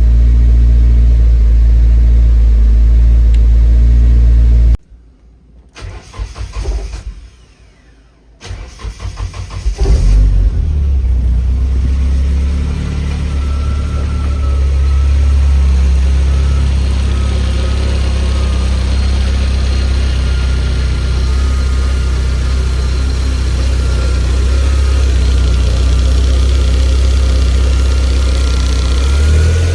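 Nissan 240SX's KA24DET turbocharged four-cylinder engine running, cutting off suddenly about five seconds in. It cranks in short uneven bursts, fires again about ten seconds in and settles into steady running. This is a freshly built engine on its first start-up.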